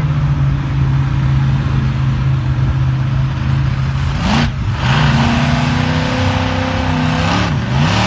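Monster truck engine running loud and steady, then revving up about four seconds in and holding at higher revs, with a brief dip and pick-up near the end.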